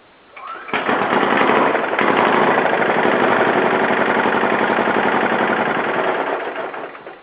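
Lombardini 15 LD 500 single-cylinder diesel engine starting from cold, at about 0 °C after three weeks unused. It catches within a second, runs with a fast, even diesel knock, and dies away near the end as it is stopped.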